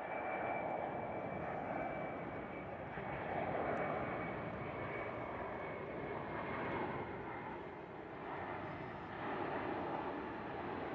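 Aircraft engine noise from a plane flying over, swelling and easing several times. A steady high whine rides on it at first and fades out.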